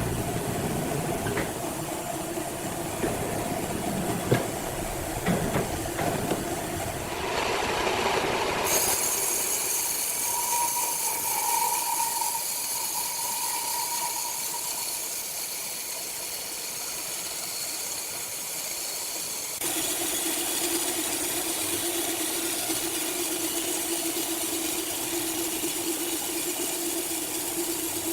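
Sawmill machinery running loudly, with knocks and rumble at first, then a steady hiss carrying a held tone. The sound changes abruptly twice, about 9 and 20 seconds in.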